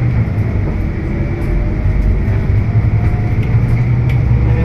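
Scania K320UB hybrid bus underway, heard from inside: a steady low drivetrain rumble with road noise.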